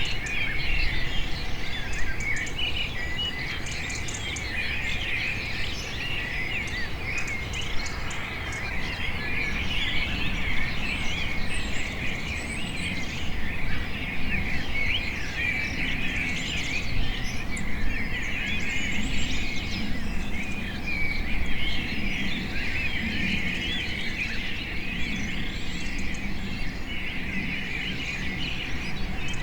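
A dense chorus of many small birds chirping and twittering over one another without pause, over a steady low background rumble.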